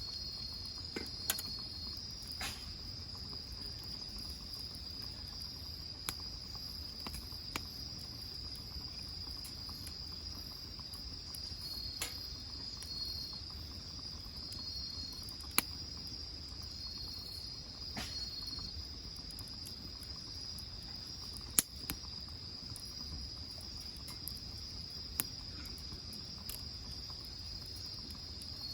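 Crickets trilling steadily in a continuous high-pitched chorus, with a second insect joining in short spells of trilling. Sharp, scattered pops and cracks from firewood burning in the grill cut through, the loudest about a third of the way in and again past the middle.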